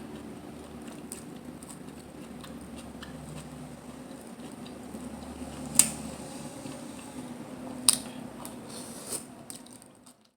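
Close-up eating sounds of mussels and clams: soft chewing and squishing with scattered small clicks, and three sharp clicks, the loudest about six and eight seconds in.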